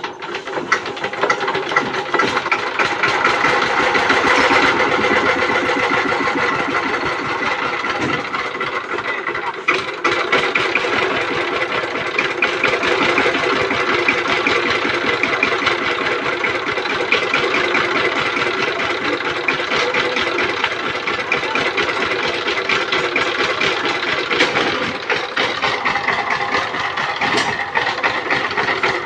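Single-cylinder diesel engine of a power tiller catching after a hand-crank start, picking up over the first few seconds, then running steadily with a fast, even knock.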